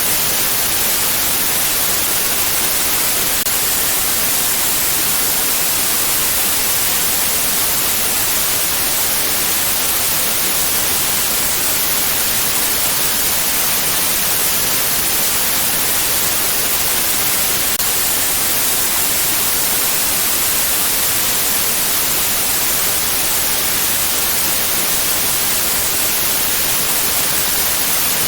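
Steady white noise, an unchanging hiss strongest in the high frequencies.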